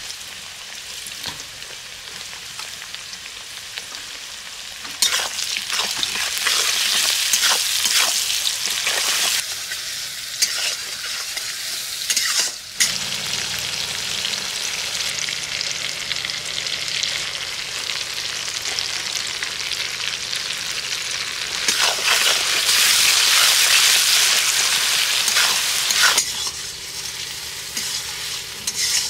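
Sliced onions and tomato pieces sizzling in hot oil in a metal kadhai, with a metal spatula stirring and scraping against the pan. The sizzle swells loudest in two long spells, one starting about five seconds in and one a little past the twenty-second mark.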